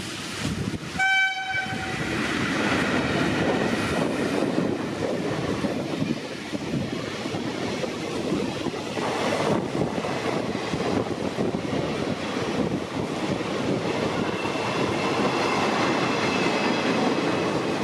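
Indian Railways WAP-4 electric locomotive sounding its horn in one short blast about a second in. Then a long express train of passenger coaches runs past at speed with a continuous rumble and clatter of wheels on rails.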